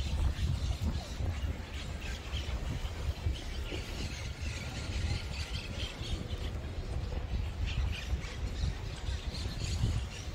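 Birds squawking and calling at scattered moments, over a steady low rumble.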